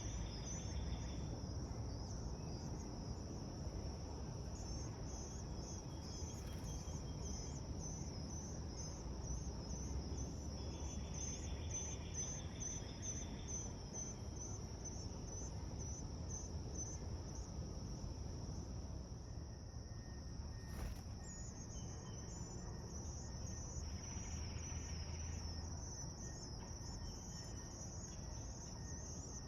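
Insect chorus trilling steadily and high, with rapid pulsing, over a low steady background rumble.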